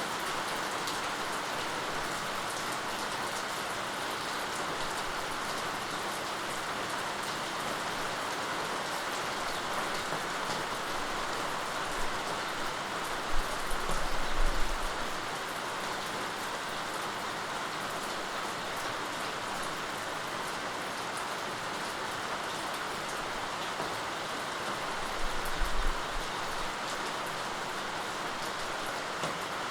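Steady rain falling, an even hiss of drops, with two brief low rumbles, one about halfway through and one near the end.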